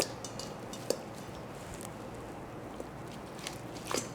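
A few light clicks and clinks of kitchen utensils against a dish, sparse and short, with a faint steady hiss between them while steamed chicken breast is being pulled apart.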